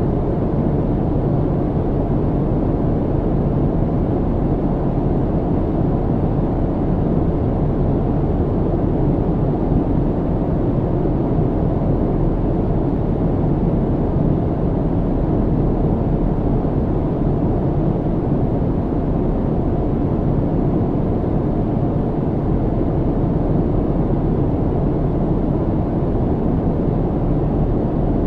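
Steady low hum and rush of airliner cabin noise in flight, engines and airflow heard through the fuselage, unchanging throughout.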